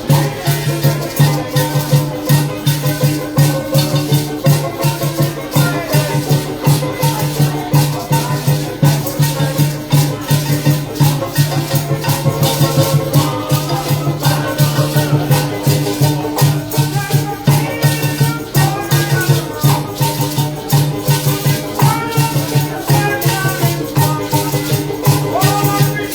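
Parang band music: a steady maraca shaker rhythm over a strong pulsing bass line, with a shifting melody on top.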